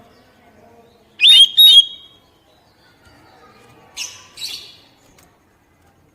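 Oriental magpie-robin (kacer) calling: two loud, clear whistled notes about a second in, then two short harsh rasping calls around four seconds in.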